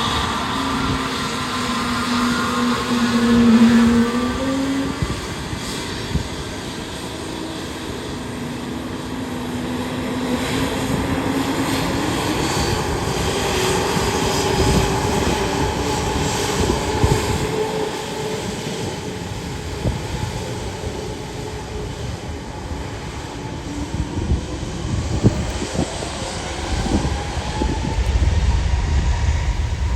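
Airliner engines running loudly and steadily, their tones gliding slowly up and down in pitch. A low rumble builds near the end.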